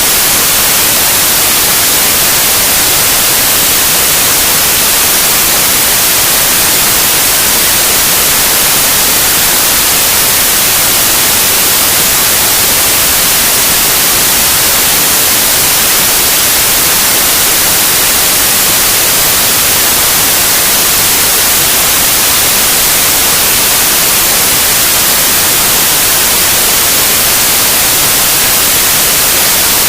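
Loud, steady white noise: an even hiss, brightest in the treble, that does not change.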